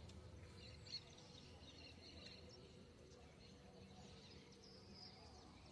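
Near silence: faint outdoor ambience with scattered, distant bird chirps over a low steady hum.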